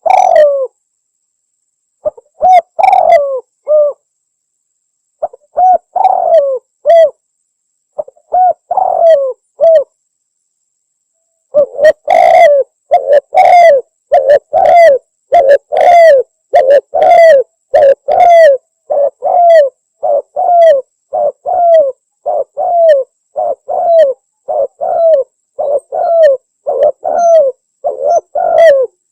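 Spotted dove cooing loudly and repeatedly: separate short phrases every second or two at first, then from about twelve seconds in an unbroken run of coos, roughly one and a half a second.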